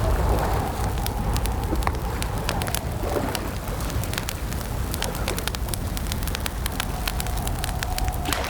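Campfire crackling: frequent sharp pops and snaps over a steady low rumble, with a faint wavering tone drifting in and out.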